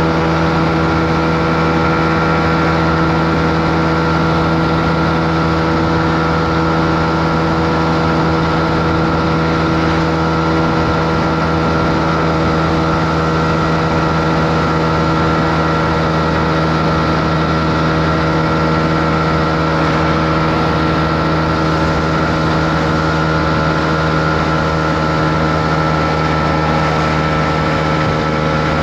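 Honda CB125R's 125 cc single-cylinder four-stroke engine running at a steady, almost unchanging speed while the motorcycle is ridden, with a steady hiss beneath it.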